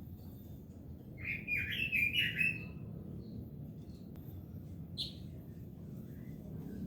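Red-billed leiothrix (Pekin robin) singing: a quick phrase of about five warbling notes about a second in, then a single higher chirp about five seconds in.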